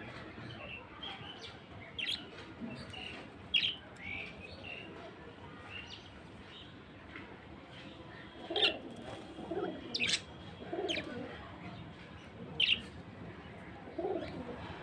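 Budgerigar chirping: short, sharp, high chirps at irregular intervals, with softer, lower warbling chatter between them in the second half.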